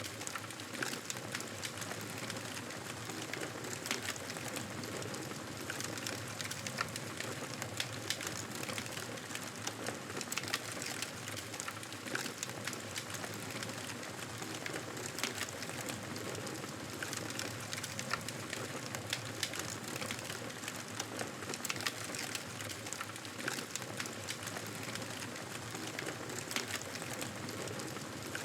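Campfire burning with a steady hiss and frequent small crackles and pops.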